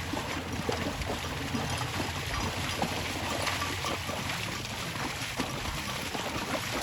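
Boat on the water: a steady low engine hum with water splashing and lapping.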